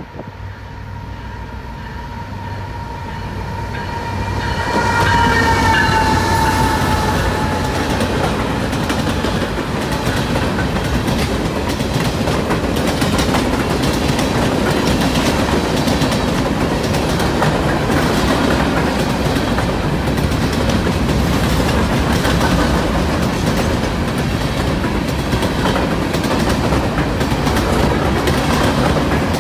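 CN freight train passing close by: its locomotive horn sounds as it comes in, dipping in pitch as the locomotive goes past about seven seconds in. It is followed by the steady rumble and clickety-clack of loaded covered hopper cars rolling by.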